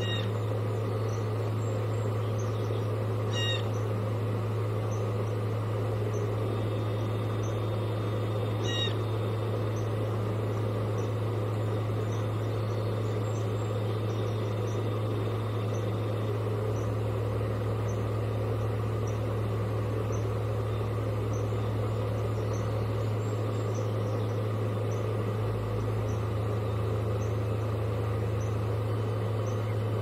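A steady low electrical hum runs throughout. Over it, a bird gives three short calls: at the start, about three and a half seconds in, and about nine seconds in.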